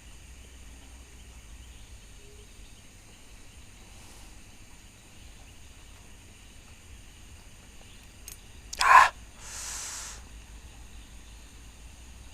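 Night insects trilling steadily at several high pitches. About nine seconds in, one short, sharp, loud sound, followed straight after by about a second of hiss.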